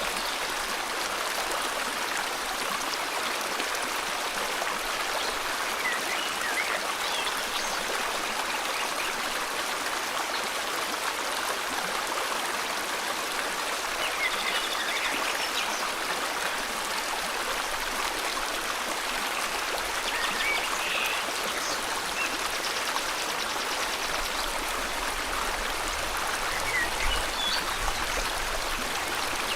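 River water flowing steadily in a tropical forest, an even rushing noise, with short faint bird chirps here and there.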